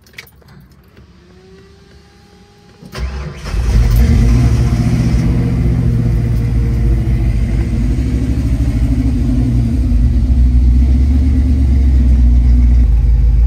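1973 Ford Bronco engine, fed by a Holley Sniper 2 throttle-body fuel injection, started with the key. A faint rising whine comes first, then brief cranking about three seconds in. The engine catches, revs up, and settles into a steady idle near 1,000 rpm.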